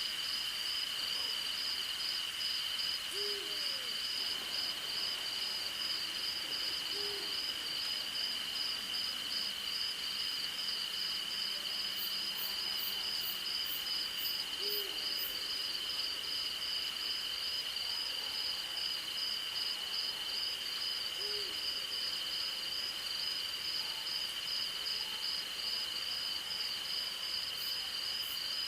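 Crickets and other night insects keep up a steady high trill and a fast, pulsing chirp, while an owl gives four short, low hoots several seconds apart.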